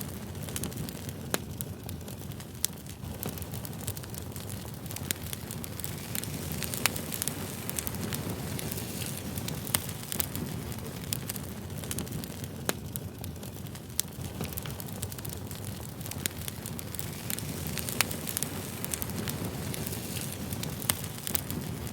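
Wood campfire burning and crackling: a steady low rush of flames with many small snaps and a sharper pop every few seconds.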